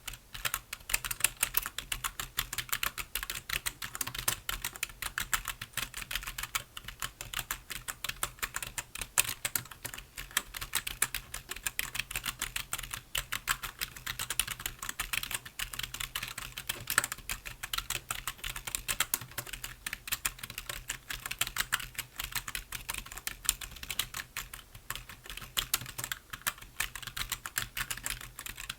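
Continuous fast typing on a computer keyboard: a dense, irregular stream of key clicks.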